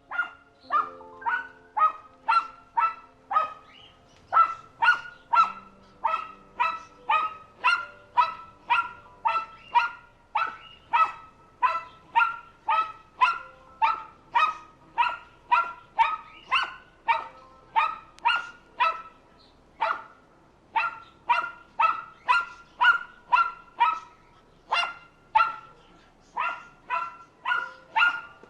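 A dog barking over and over in a steady rhythm, about two short barks a second, with a couple of brief pauses.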